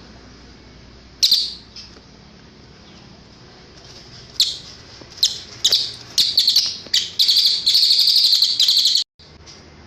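Cililin bird song: one sharp high call about a second in, then a run of high chirps that quicken into a rapid steady trill, which cuts off abruptly near the end, over a faint hiss.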